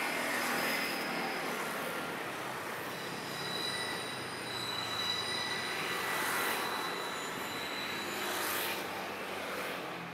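Train running along the rails with its wheels squealing: a continuous rush of rolling noise with thin, steady high-pitched squeal tones that come and go.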